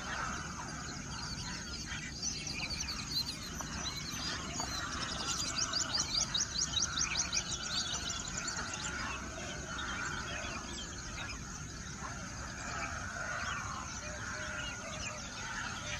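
Several birds chirping and singing together, with a fast run of evenly repeated high notes for about three seconds in the middle.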